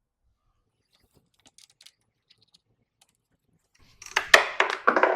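A few faint clicks, then about four seconds in a quick run of loud metallic clinks and rattles, as of metal hardware or a hand tool being handled while fitting the front fender.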